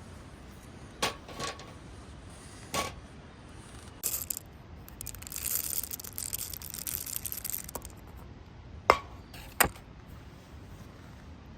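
Camp tableware being handled: a few light knocks and clinks, then a few seconds of hissing, then two sharp clicks.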